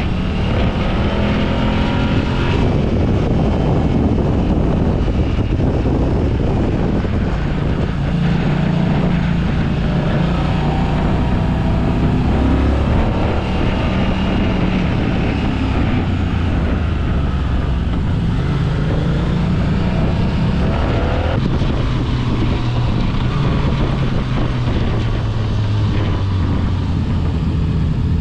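Motorcycle engine running under way, its note rising and falling as the rider accelerates and eases off, with wind rushing over the microphone.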